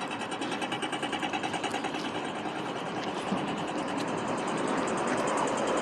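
A fast, even clicking rhythm, several clicks a second, over steady street noise.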